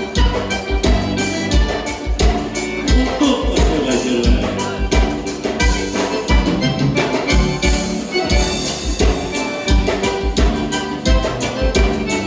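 Live instrumental gaúcho dance music: a band led by accordion, with bass and drums keeping a steady, even beat.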